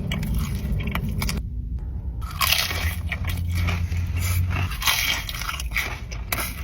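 Close-miked crunchy bites and chewing of crisp food, a run of sharp crackles with a short break about a second and a half in, then dense crunching again.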